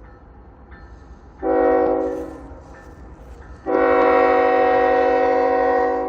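A diesel locomotive's multi-chime air horn sounds twice: a short blast about a second and a half in, then a long steady blast that fades out near the end. A low rumble from the train runs underneath.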